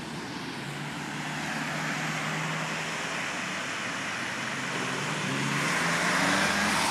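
Road traffic on a busy road: car engines and tyres going by, with one vehicle's engine hum growing louder as it nears, loudest near the end.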